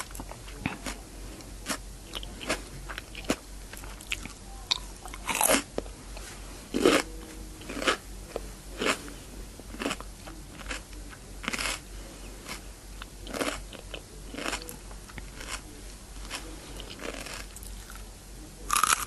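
Raw cucumber being bitten and chewed close to the microphone: crisp crunches about once a second, with a louder bite about five and a half seconds in and another near the end.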